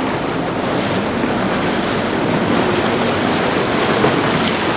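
Steady wash of open water and wind on the microphone, an even rushing noise with no distinct events.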